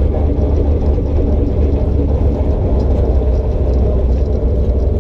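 A car engine running steadily with a deep, constant low rumble.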